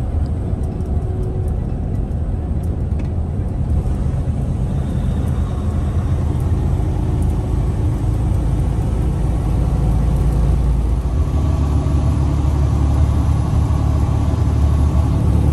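Truck engine and road noise droning steadily while driving on the highway, with the engine note changing about eleven seconds in.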